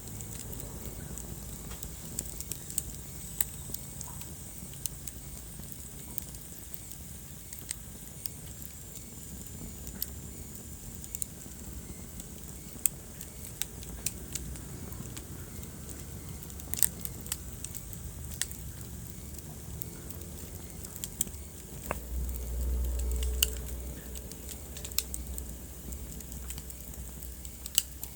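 Wood fire burning in a fireplace, crackling with irregular sharp pops over a low steady rumble of flames. A louder low rumble swells for about a second and a half near the end, and a faint high whistle sounds for several seconds early on.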